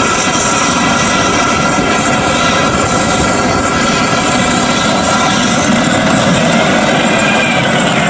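Loud, steady engine drone with a mix of steady whining tones over a dense rumble, running without a break.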